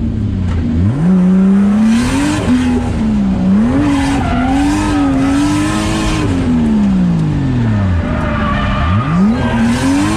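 630-horsepower drift car's engine revving hard through a drift: the pitch climbs sharply about a second in, wavers up and down with the throttle, drops away near the eighth second and climbs again. The tires squeal underneath.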